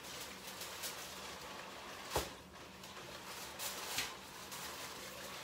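Kitchen handling noises: a few sharp clicks and knocks, the loudest about two seconds in and another near four seconds, over a steady low hum.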